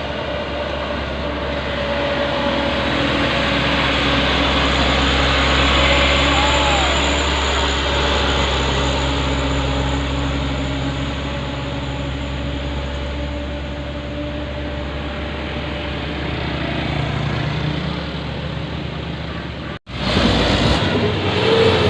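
Diesel engine of a loaded Hino dump truck running hard and steadily under load on a steep uphill climb, mixed with road traffic. Near the end the sound cuts out for an instant and comes back changed.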